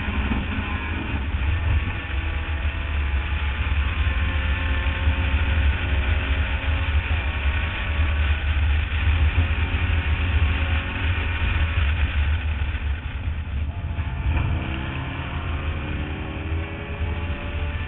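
Mazda Miata race car's four-cylinder engine at full throttle, its pitch rising through the revs, under heavy wind buffeting on a roof-mounted camera. About fourteen seconds in the engine note drops off briefly, as on a lift or gear change, then climbs again.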